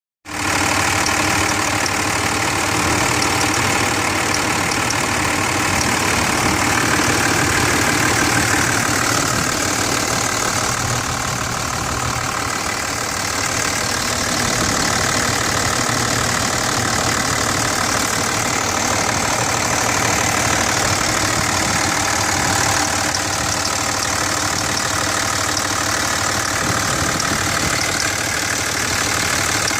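A 2006 Dodge Ram 2500's 5.9-litre Cummins turbo-diesel inline-six idling steadily. A light ticking in the diesel clatter is the sign the owner suspects of valve lash or injector trouble.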